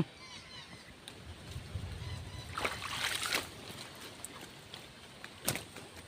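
Faint water sloshing and splashing, with a cluster of knocks and clatters about halfway through and a single sharp click near the end.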